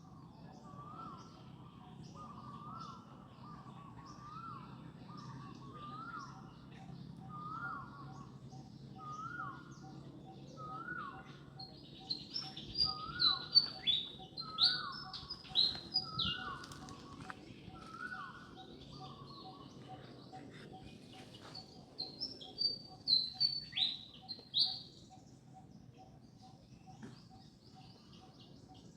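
Birds calling: one bird repeats a short mid-pitched call about once a second for most of the first two-thirds. Twice, around the middle and again later, a cluster of sharp high chirps rings out, the loudest sounds here.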